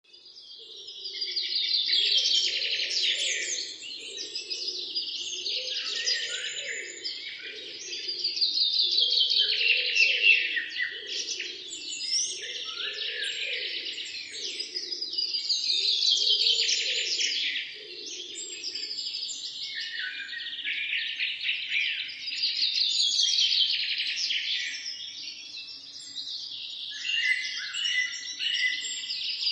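A chorus of songbirds chirping and twittering, swelling and fading in waves about every six to seven seconds.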